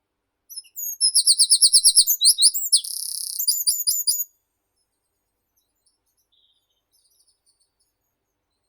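A meadow songbird sings one loud, high phrase close by, lasting about four seconds: a fast run of whistled notes, then a buzzy stretch, then a few rising notes. Faint chirps of other birds follow.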